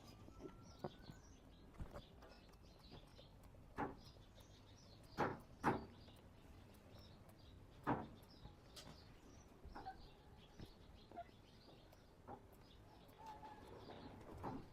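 Faint birds chirping, with a few scattered short clicks and knocks, two close together about five seconds in and another near eight seconds.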